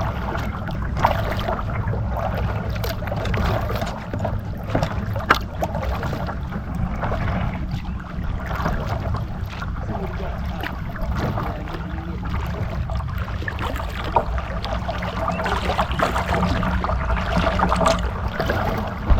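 Kayak on the water: small paddle splashes, drips and light knocks over a steady low rumble.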